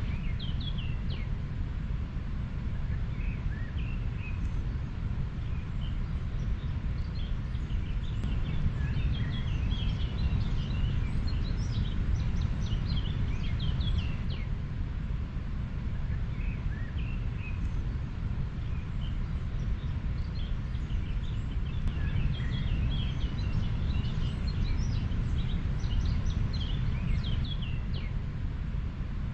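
River flowing steadily as a low, even rush, with small birds chirping throughout.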